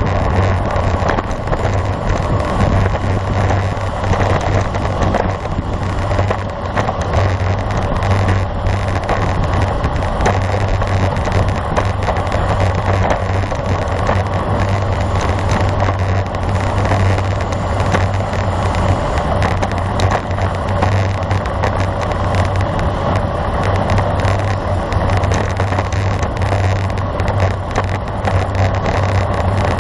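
Steady wind rush and tyre-on-road noise picked up by a camera riding on a road bicycle at speed, loud and unbroken, with a strong low rumble.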